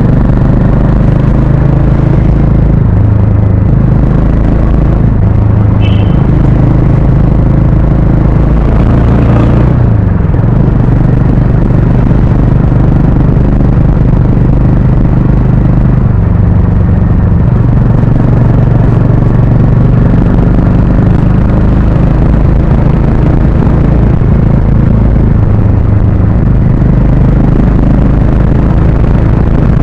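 Harley-Davidson X440's single-cylinder engine and exhaust running loudly while riding, with a steady low beat; the pitch dips and climbs again about ten seconds in.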